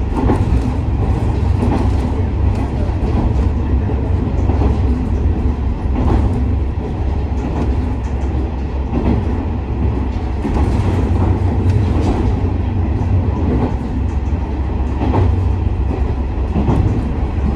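KiHa 47 diesel railcar running, heard from inside the car: a steady low drone of the engine and running gear, with the wheels clacking over rail joints every few seconds.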